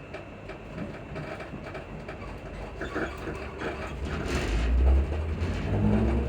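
Inside a Class 334 electric multiple unit gathering speed: a low rumble builds, and near the end the traction motors' hum starts to rise in pitch. Repeated short clicks and squeaks from the suspension run over it.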